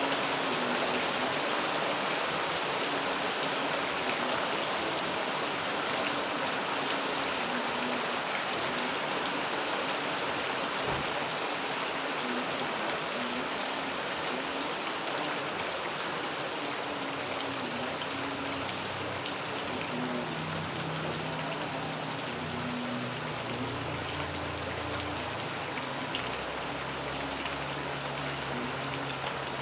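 Steady rain falling: a dense, even hiss of drops with scattered separate drips. A faint low wavering hum sits underneath and deepens in the last third.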